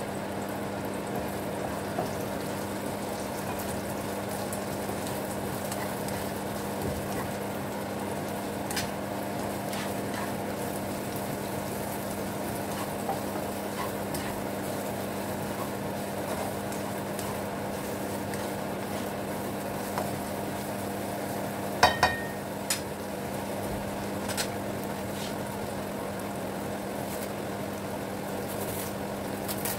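Sliced onions and garlic frying in a little oil in a non-stick wok, a steady sizzle over a constant low hum, with a few sharp clicks about two-thirds of the way through.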